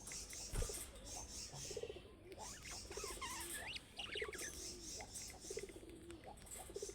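Budgerigars chattering and warbling: a stream of short squeaky chirps, with a few rising and falling whistles in the middle. A single low thump about half a second in.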